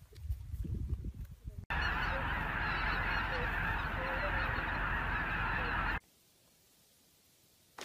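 A huge flock of geese in flight, calling all at once: a dense, continuous din of honking that starts abruptly about two seconds in and cuts off sharply about six seconds in.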